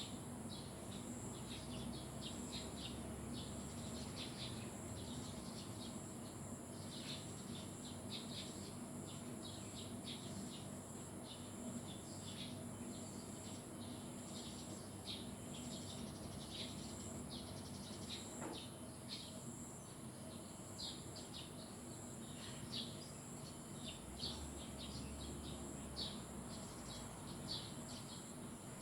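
Small birds chirping: many short, high chirps in quick irregular runs throughout, over a steady high-pitched buzz and a soft background hiss.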